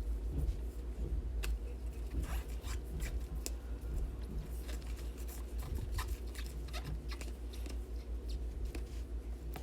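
Trading cards being handled and sorted on a table: scattered light clicks, taps and rustles, over a steady low electrical hum.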